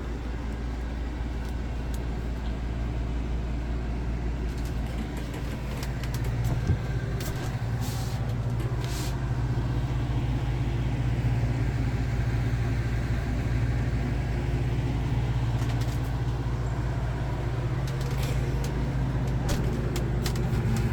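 Camper's air conditioning unit running with a steady low hum, growing slightly louder partway through, with a few light clicks about seven to nine seconds in.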